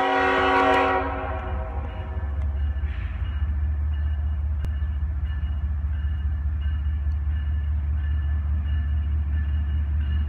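CSX diesel locomotive's horn sounding a chord that cuts off about a second in, followed by the steady low rumble of the approaching locomotive's engine. A faint high ding repeats about once a second over it.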